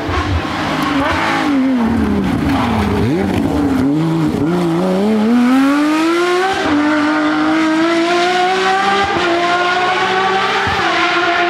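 Porsche 911 rally car's flat-six engine, slowing with its pitch dipping and wavering, then accelerating hard with the note climbing steadily. It changes up a gear about halfway through and again near the end, each shift a short drop before the pitch climbs again.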